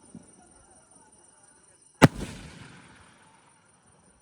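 One loud bang from a 3-inch repeating aerial fireworks cake, the Mr. Big Elephant Fireworks OSCAR, about two seconds in. Its rumbling echo dies away over about a second and a half.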